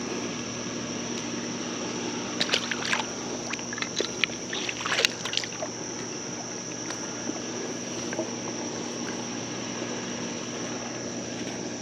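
Steady outdoor creek ambience with a constant high insect drone. About two and a half seconds in comes a three-second flurry of sharp clicks and splashes, the loudest part, fitting a fish being handled and let back into the water.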